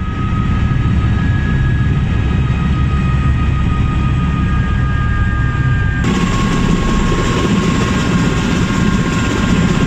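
Motorcycle riding at speed, heard on the bike: steady wind rush and engine noise with a faint high whine. The sound changes abruptly about six seconds in.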